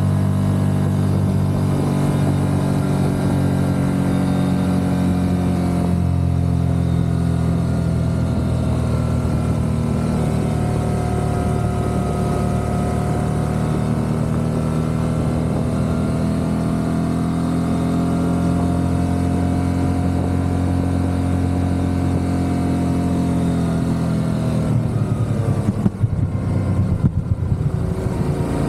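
Motorcycle engine running steadily at cruising speed, its pitch drifting gently up and down; near the end the pitch drops and the sound turns uneven as the bike slows.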